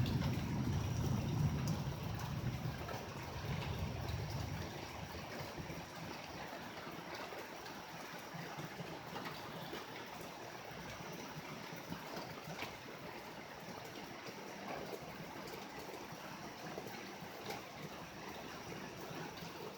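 Thunder rumbling low and fading away over the first four seconds or so, then steady rain with water trickling and dripping.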